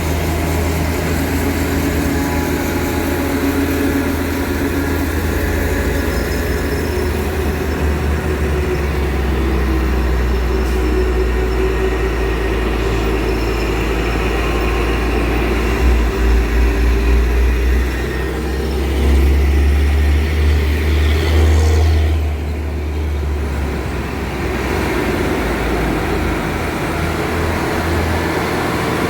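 Heavy truck's diesel engine running under load on a steep climb, a steady deep rumble that swells louder around the middle.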